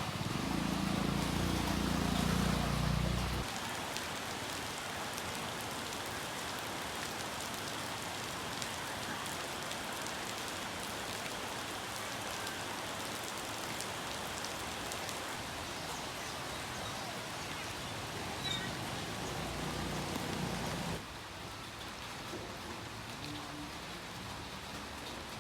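Steady heavy rain falling, an even hiss, with a low rumble under it for the first few seconds. The rain drops a little in level near the end.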